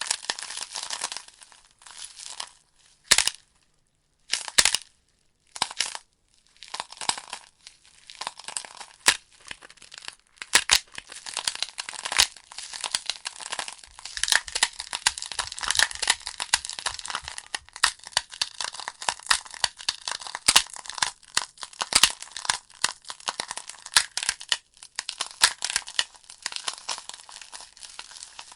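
Burning logs crackling, with irregular sharp pops and snaps of the wood over a soft hiss. About three seconds in the crackle thins to a few isolated pops, then thickens again from about seven seconds.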